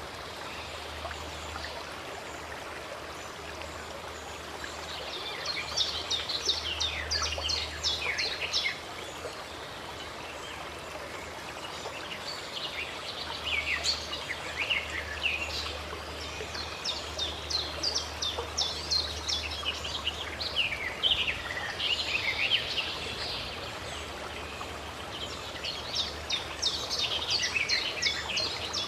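Steady rush of running water, with birds singing in bursts of quick, high chirps, about a third of the way in, through the middle, and again near the end.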